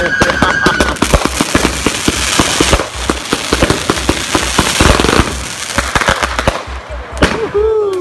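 Consumer firework cake firing a rapid barrage of shots with dense crackling, a whistle fading out about a second in. The cracks thin out and a second, lower whistle sounds near the end.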